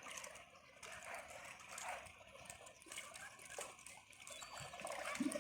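Faint seawater lapping and trickling at the shore, with small irregular splashes.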